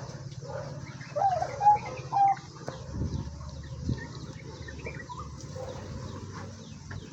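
Farm poultry, turkeys and ducks, calling in short pitched notes, some rising, in a burst over the first couple of seconds and more faintly after, with a couple of low thumps and a steady low hum underneath.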